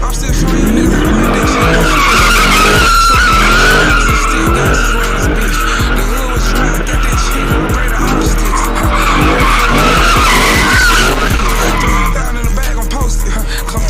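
Car tyres squealing as a car spins its wheels, the squeal wavering and easing off near the end, over an engine revving up and down. Music plays underneath.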